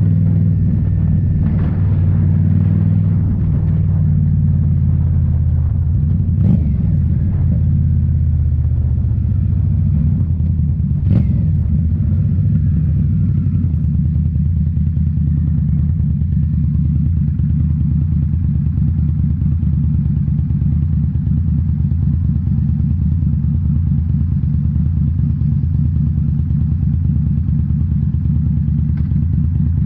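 2018 Indian Scout Bobber's V-twin engine running through Rinehart slip-on mufflers while riding. The exhaust note drops over the first several seconds, then holds steady at cruise. Two short clicks come about six and eleven seconds in.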